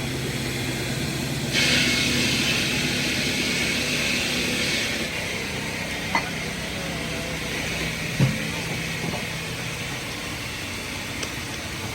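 Heavy truck's engine running steadily, with a loud hiss starting about a second and a half in and lasting about three seconds. Two sharp knocks follow later.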